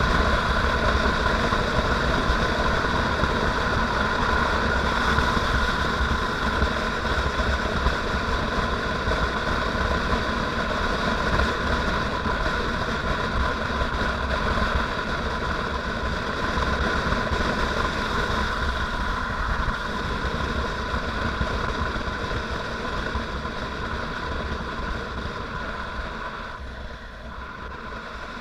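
Motorcycle engine running steadily while riding, with a low rumble under it. It grows gradually quieter over the last several seconds.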